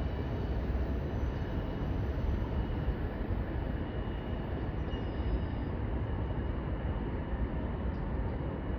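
CSX freight train cars rolling past on the track: a steady low rumble with a few faint thin high tones above it.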